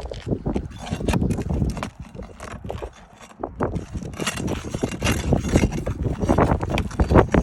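Irregular knocks, taps and scrapes of tools and hands prying up asphalt roof shingles, with a quieter spell about three seconds in.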